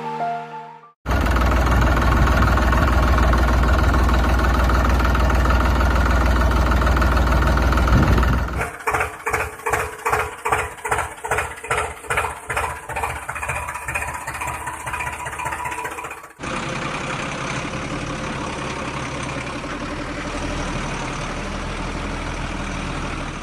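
Tractor engine running: first a steady deep rumble, then about eight seconds in an even chugging of two or three beats a second, then about sixteen seconds in a steadier, lighter running sound.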